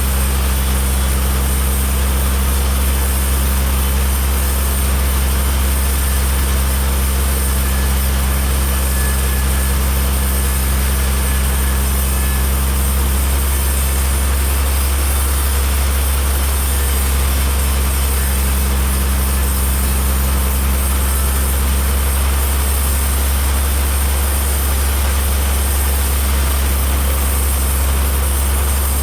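A heavy engine running steadily at a constant speed, with a deep hum and no change in load.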